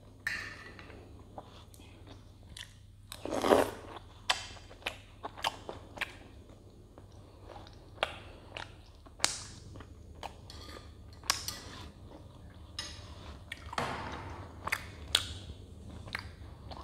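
Close-up eating sounds of soft milk-soaked flour dumplings (dudh roti): wet chewing with many short sharp clicks and smacks, and a louder, longer mouth sound about three and a half seconds in and again near fourteen seconds.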